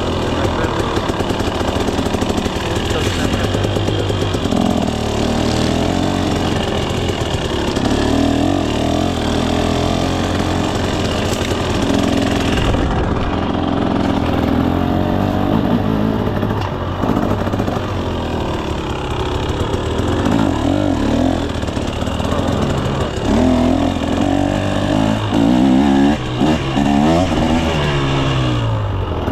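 2024 KTM 300 SX two-stroke dirt bike engine being ridden, the revs constantly rising and falling with the throttle. Near the end the note falls away as the revs drop.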